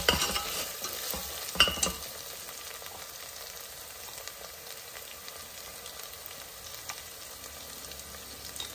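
Onions, ginger-garlic paste and green chillies sizzling in hot oil as they are stirred, with turmeric just added. The stirring utensil knocks against the pan twice in the first two seconds, then there is a steady sizzle.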